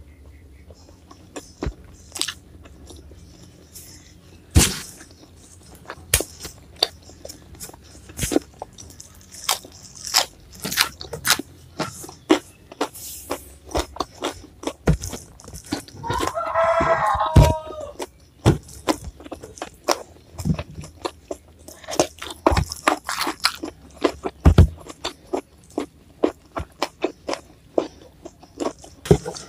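Close-miked crunching and chewing of raw vegetables, irregular crisp bites and crunches. About halfway through a rooster crows once in the background.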